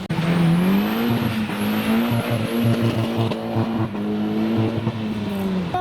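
Car engine revved hard: the revs climb in the first half second, stay high with small wobbles for about five seconds, then drop near the end.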